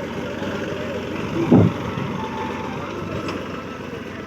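Massey Ferguson 9500 Smart tractor engine running steadily, with a brief louder burst about a second and a half in.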